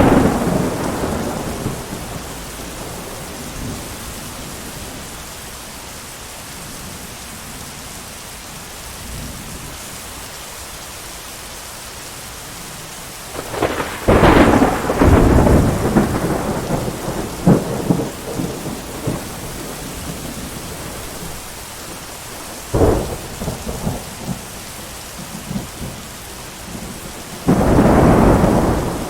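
Steady heavy rain with repeated thunder. A rumble fades away in the first couple of seconds, a loud crackling peal comes a little before halfway, a sharp crack about three quarters through, and another peal near the end.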